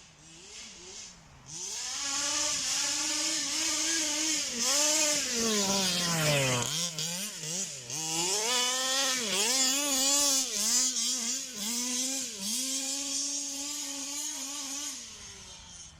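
Zenoah G320 two-stroke petrol engine of a 1/5-scale Rovan Baja RC car with a VRC big-bore exhaust, revving up and down again and again. It is faint at first and loud from about a second and a half in. The pitch drops right down once, about six and a half seconds in, then climbs back, and the sound fades near the end.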